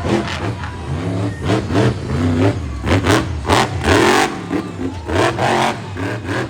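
Monster truck engine revving hard in quick repeated throttle blips, its pitch swinging up and down with each one.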